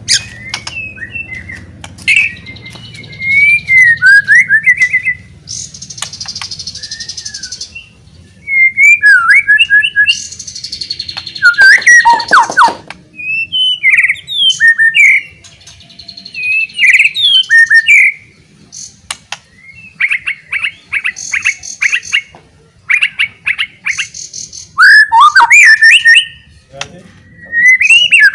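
White-rumped shama (murai batu) singing loudly: a varied song of sliding whistles, quick runs of sharp chirps and several harsh buzzy notes, in phrases broken by short pauses.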